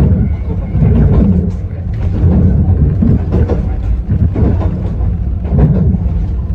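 Yokkaichi Asunarou Railway 260 series narrow-gauge electric train running along the track: a loud, low rumble of wheels and running gear, with uneven knocks from the rails.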